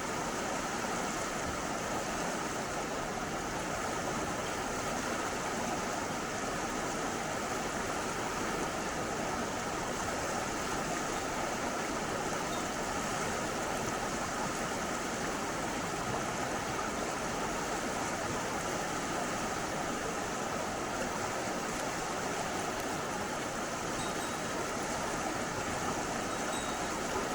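Mountain stream rushing, a steady, even wash of flowing water.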